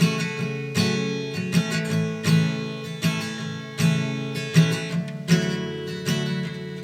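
Acoustic guitar strumming chords in a steady rhythm, a strum about every three-quarters of a second, with no singing: an instrumental passage of a pop song.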